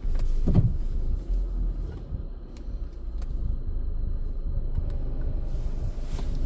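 A car running, heard from inside the cabin as a steady low rumble, with a brief thump about half a second in.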